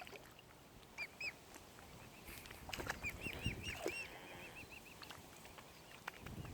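Mute swan cygnets peeping: runs of short, high, arching peeps that come in several clusters, with one brief lower falling call in the middle.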